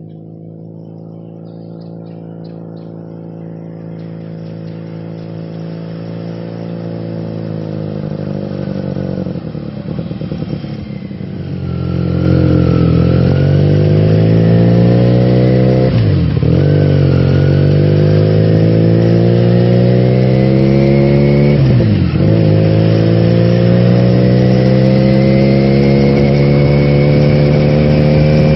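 A vehicle engine grows louder over the first dozen seconds, then runs loud and accelerates. Its pitch drops sharply at two gear changes and climbs again after each.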